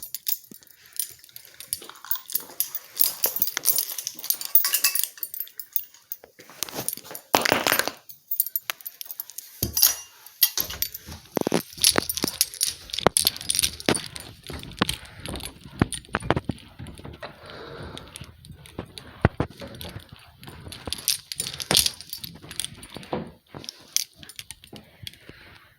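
Irregular handling noise: many small clicks and rustles with light jingling, with one louder rustle about seven seconds in.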